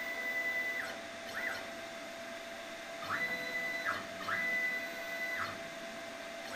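Stepper motors of a Crossfire Pro CNC plasma table driving the gantry in several short moves: each a high whine that rises in pitch, holds steady, then falls away as the axis stops. A faint steady hum runs underneath.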